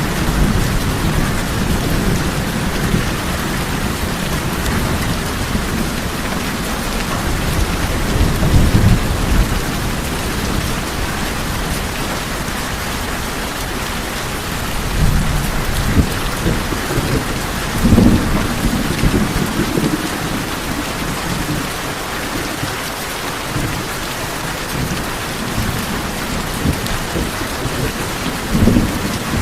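Steady heavy rain falling on tin roofs, with low rumbling thunder underneath that swells a few times.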